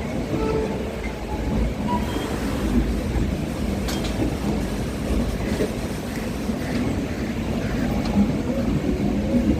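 Steady low rumble of a train at a busy railway station, with a sharp click about four seconds in.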